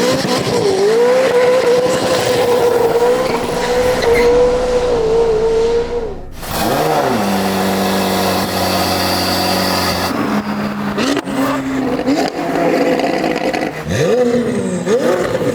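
McLaren 570S/620R twin-turbo V8 through a Valvetronic Designs full valved exhaust, held at high revs for about six seconds, then dropping off, revving once and settling to a steadier lower note for a few seconds. Near the end it gives several quick rev blips.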